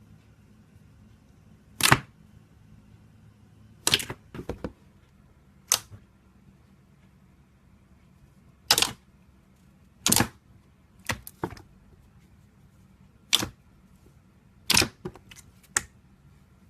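Slime being squeezed and pressed, giving about a dozen sharp pops from trapped air bursting, spaced irregularly about a second or two apart, some in quick pairs.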